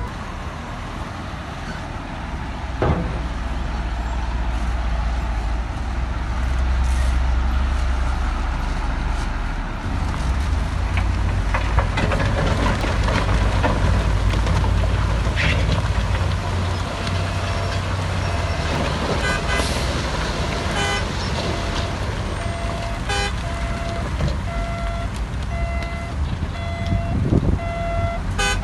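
Heavy diesel earthmoving machinery running with a steady low drone, with a few knocks in the first half. In the second half a reversing alarm beeps about once a second.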